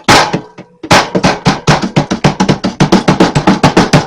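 A wooden scraper hacking rapidly at thick freezer ice, a fast run of sharp knocks about six or seven a second, after a single knock at the start, as the built-up ice is chipped loose.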